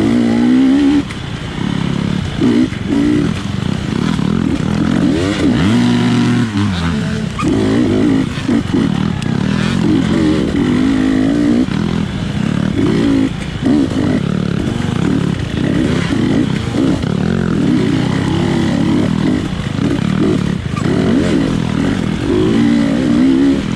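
GasGas dirt bike engine under racing load, revving up and falling back in quick, repeated bursts. A steadier, lower stretch comes about six seconds in.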